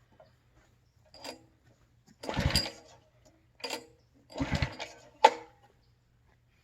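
Recoil starter cord of a Simpson pressure washer's gas engine pulled twice, the engine turning over briefly each time without firing, with sharp clicks between the pulls. The engine is choked and refusing to start.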